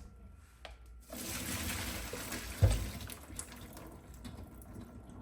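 Hot water and boiled asparagus poured from a pot into a strainer in the sink. The water splashes and drains, starting about a second in and slowly fading, with one dull thump about midway.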